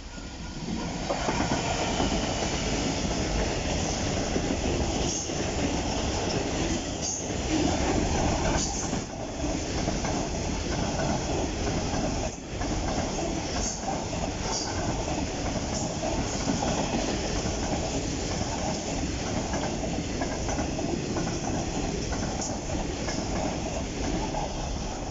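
Class 66 diesel freight locomotive, with its EMD two-stroke engine running, passes close by about a second in. A long train of coal hopper wagons follows, rolling steadily past on the rails, with brief high wheel squeals now and then.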